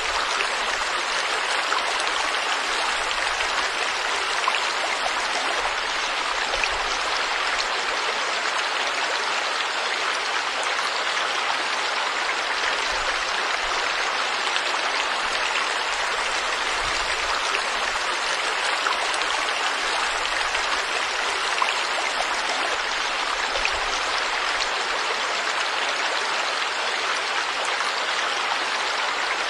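River water flowing steadily: a continuous, even rush of water.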